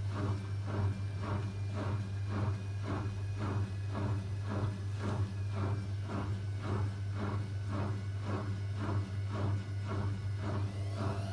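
Zanussi ZWC 1301 washing machine in its final spin cycle: the drain pump hums steadily while the drum turns with a regular swish-thump about two or three times a second. Near the end a rising motor whine starts as the drum begins speeding up into the spin.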